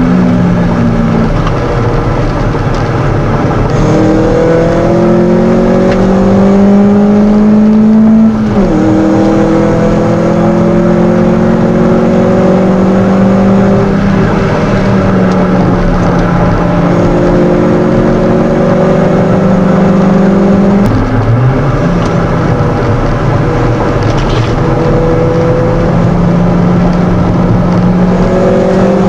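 A 1997 Mitsubishi Colt 1600's four-cylinder engine, heard from inside the cabin under hard acceleration on track. Its pitch climbs steadily through each gear and drops sharply twice, about 8 and 21 seconds in, as it shifts up.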